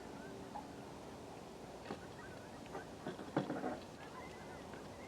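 Faint, scattered short calls of birds over the marsh, with a few soft knocks near the middle.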